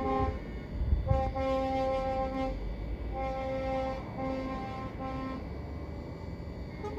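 Truck air horns sounding in a series of blasts, some short and some held for about a second, over the low rumble of passing lorry engines.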